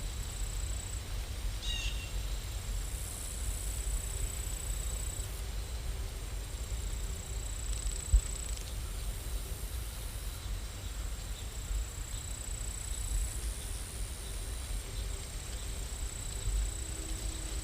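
Steady rain sound, an even hiss with a low rumble, and a faint high steady tone that comes and goes. One short thump about eight seconds in.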